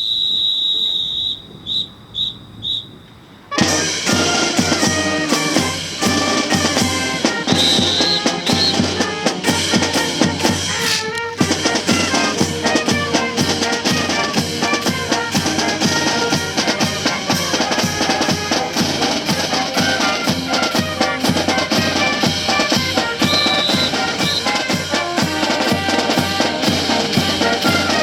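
A whistle sounds one long blast then three short ones, and about three and a half seconds in a brass band strikes up with snare and bass drums, playing on steadily.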